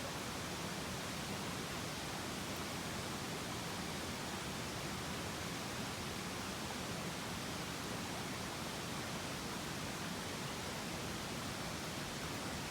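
Mountain stream rushing: a steady, even hiss of flowing water.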